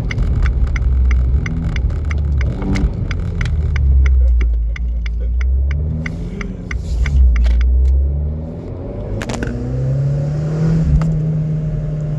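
Abarth 595c's turbocharged four-cylinder engine with a Record Monza sport exhaust, driving: the note rises and falls through the gears, drops away about eight seconds in, then holds a steady drone near the end. A rapid run of light ticks sounds over the first half.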